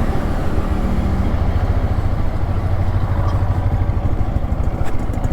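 Motorcycle engine running steadily with a low rumble, mixed with a rushing noise of wind and road.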